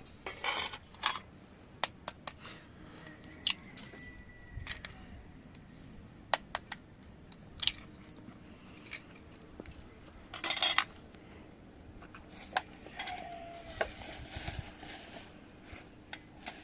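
Kitchen dishes and utensils clinking and knocking now and then during food preparation, with a short clatter about ten seconds in.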